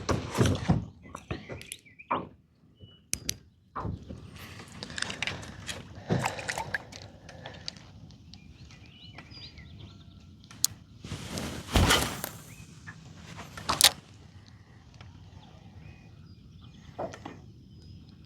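Scattered knocks and thumps of gear being handled in a small fishing boat, the loudest a pair of heavier thuds a little past the middle.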